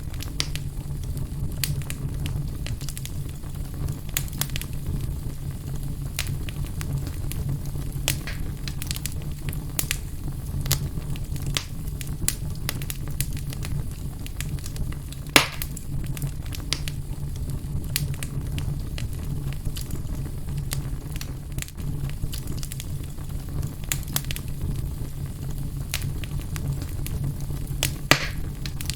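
Wood fire burning in a fireplace: a steady low rumble of flames under frequent small crackles, with two louder pops, one about halfway through and one near the end.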